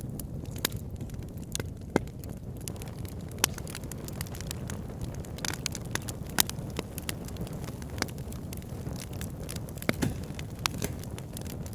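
Wood fire burning in a fireplace: a steady low rumble of flames with irregular crackles and sharp pops, a few of them louder than the rest.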